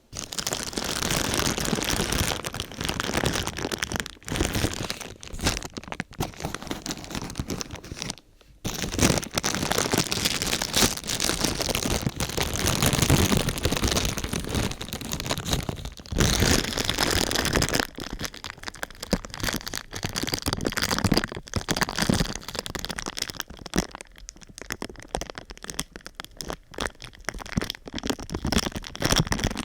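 Dense, irregular crinkling and crackling of thin sheet material being crumpled and handled close to the microphone, with a brief pause about eight seconds in.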